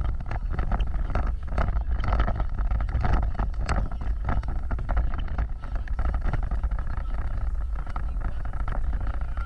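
Off-road vehicle driving over a rough trail: a steady low rumble with frequent knocks and rattles as it bumps along.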